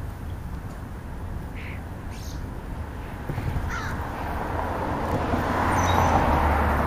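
American crows cawing, a few short calls, while a broad rush of noise builds in the second half.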